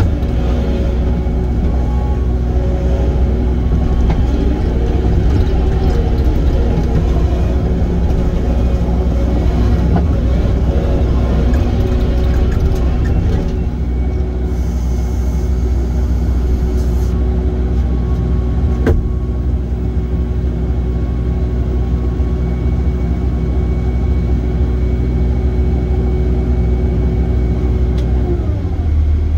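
Heavy equipment engine running steadily at a constant speed with a deep hum; its note changes near the end.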